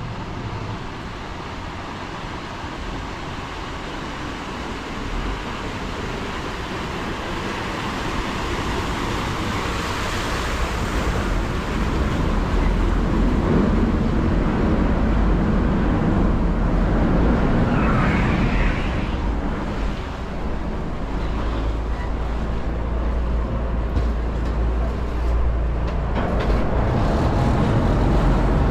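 Steady motor vehicle engine and traffic noise, a deep rumble that grows louder about a third of the way in.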